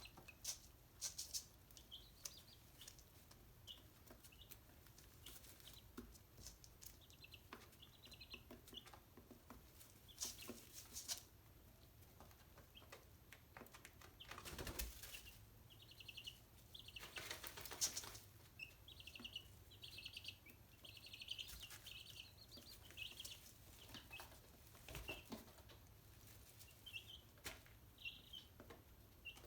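Chickens giving short, high chirps throughout, with a few brief bursts of wing flapping, the loudest near the middle.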